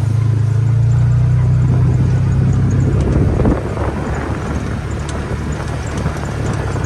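Vehicle engine running steadily while driving, with a low hum and road noise; the engine note eases off a little about halfway through.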